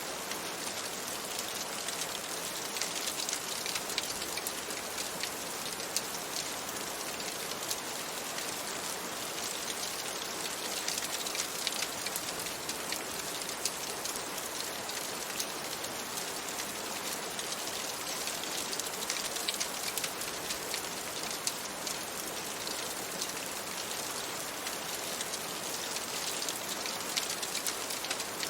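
Steady rain: a dense, even hiss with many small sharp ticks of drops.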